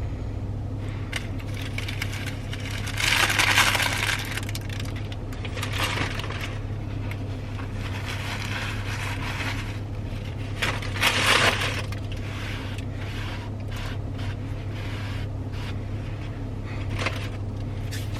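Fast-food packaging being handled and crumpled during clean-up: scattered clicks and rustles, with two louder bursts of crinkling, one about three seconds in and one about eleven seconds in, over a steady low hum.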